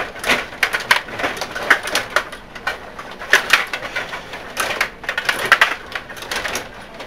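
Table hockey game in play: irregular flurries of sharp plastic clicks and clacks from the rods and players being spun and pushed, with the puck knocking against players and boards.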